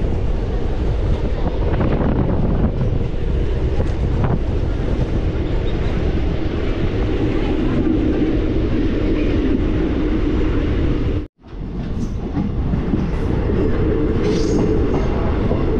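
Train running along the track, a loud steady rumble. The sound breaks off to silence for a moment about eleven seconds in, then picks up again.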